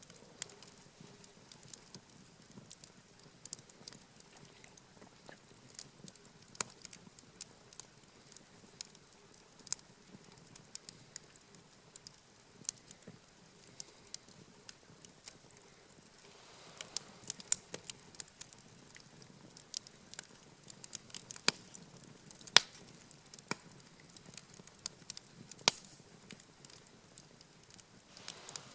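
Wood campfire crackling, with irregular sharp pops and snaps that come thicker and louder in the second half.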